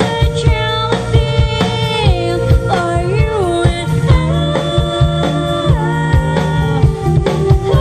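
A live pop-rock band playing: a drum kit keeps a steady beat under bass, guitar and keyboard, with a melodic lead that slides between notes.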